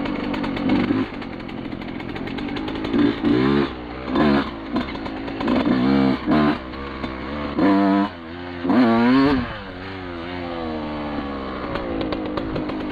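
Two-stroke off-road engine being ridden, revving up and down in several sharp bursts in the middle, with steadier running before and after.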